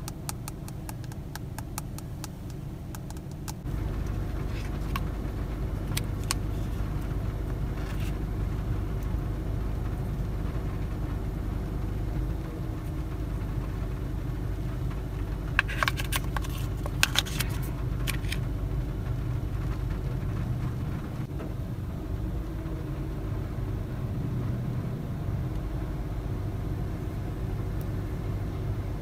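A steady low hum, like a car engine idling, that gets louder about four seconds in. Over it come light clicks and crackles of phone packaging being handled, thickest at the start and again as a short cluster of sharper clicks past the middle.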